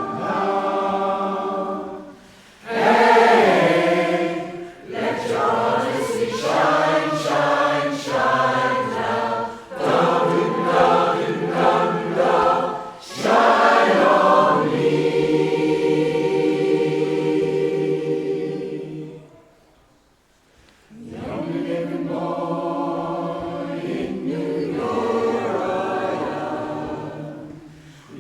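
Amateur community choir singing in harmony, holding long notes in phrases, with a short pause about two-thirds of the way through before the voices come back in.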